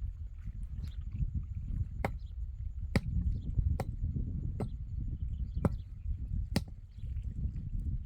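Sharp chopping strikes, roughly one a second, over a steady low rumble.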